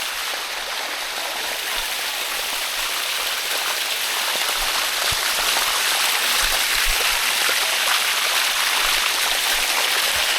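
Steady rushing of water running over rock, getting a little louder after a couple of seconds.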